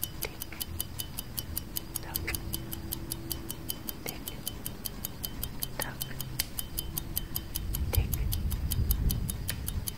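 Clock-style tick-tock sound effect of a countdown timer, fast and perfectly even at several ticks a second, with a few louder clicks scattered among them. A low rumble swells in near the end.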